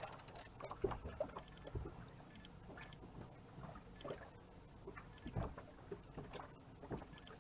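Water lapping and slapping faintly against the hull of a small drifting boat, with scattered soft knocks.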